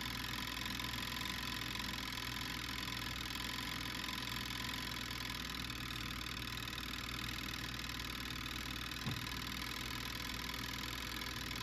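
Steady low mechanical hum with a soft, even hiss over it while garlic cooks on the heat, and one short click about nine seconds in.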